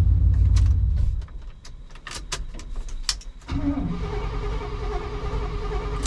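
Chevy pickup's engine running, then cutting off about a second in, followed by a string of clicks. About three and a half seconds in the engine starts again and settles into steady running.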